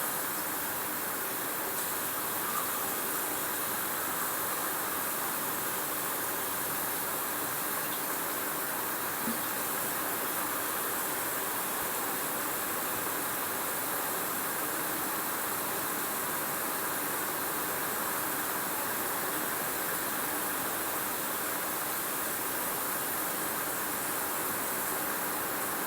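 Rain falling steadily: an even hiss with no let-up, broken only by a couple of faint ticks.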